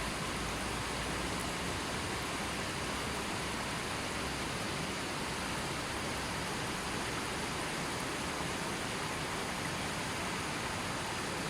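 Gently flowing river: a steady, even rush of water.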